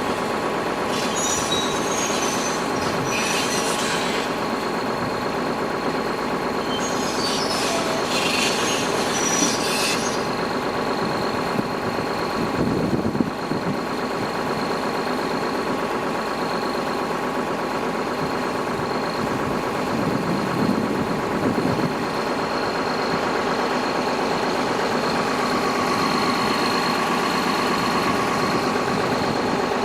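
Hitachi ZX350 excavator's diesel engine running steadily under work, with stretches of high-pitched squealing and screeching during the first ten seconds.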